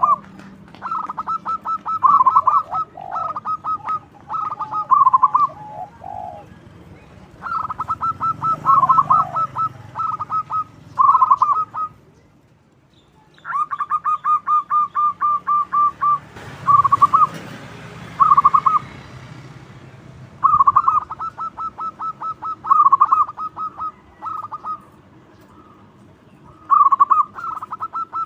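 Zebra dove (local perkutut) singing loudly: repeated series of rapid staccato coos, each run of quick notes ending in a few fuller ones, with short pauses between series.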